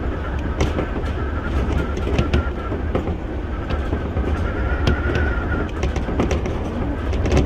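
Keio 1000 series electric multiple unit running along the line, heard from inside the train: a steady rumble with irregular clicks of the wheels over the track and a faint high whine that swells slightly midway.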